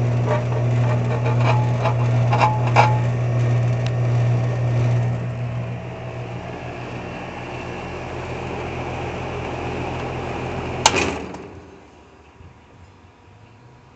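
Bryant two-stage central air conditioner condensing unit running with a steady low hum, with a few light clicks in the first few seconds. Near the end a sharp click and the unit shuts off: the compressor hum stops and the condenser fan winds down.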